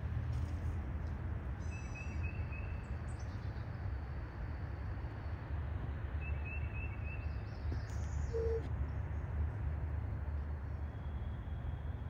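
A bird calling in two quick runs of three or four high chirps, a couple of seconds in and again about six seconds in, over a steady low rumble. A single short low note sounds a little after eight seconds.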